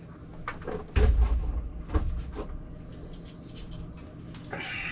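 Scattered knocks and clicks of objects being handled, with a low thump about a second in and another just before two seconds, light ticks after that, and a short hiss near the end.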